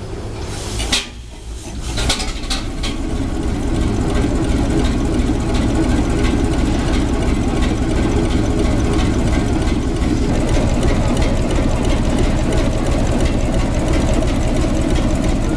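Large marine diesel engine starting. A sharp burst about a second in and a few sharp pops around two to three seconds, then it builds and settles into a steady run from about four seconds on.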